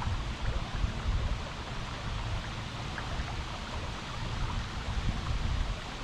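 River water running over rocks: a steady rushing hiss with an uneven low rumble underneath.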